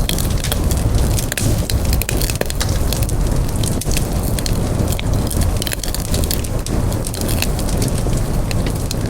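Campfire burning, with dense, irregular crackles and pops over a steady low rumble of flames.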